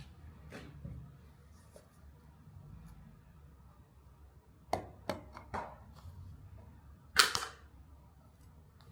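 Four sharp taps a little under half a second apart, then a louder, slightly longer knock about two seconds later, over faint background noise.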